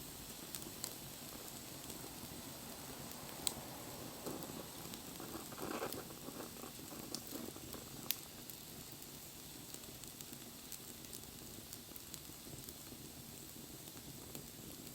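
Wood fire burning with a steady hiss and soft crackling, busier for a few seconds in the middle, and a few sharp pops from the burning wood.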